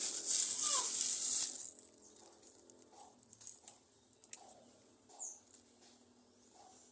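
Pigeons moving about: a loud flurry of rustling wingbeats for the first second and a half, then scattered soft taps and faint short peeps.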